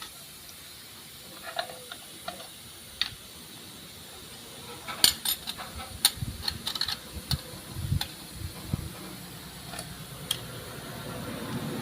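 Light metal clinks and clicks as motorcycle clutch friction plates and steel plates are fitted one by one into the clutch basket, sparse at first and then a busy run of clicks and a few soft knocks in the middle. Near the end a passing vehicle's noise begins to rise.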